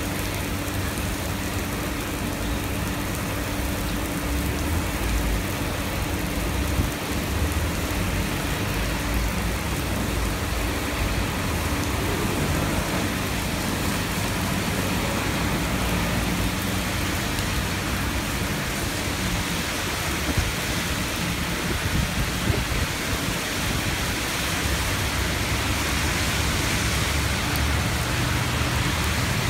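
Heavy sudden downpour: a steady hiss of rain on the road and surroundings, with vehicles running through the water on the wet road.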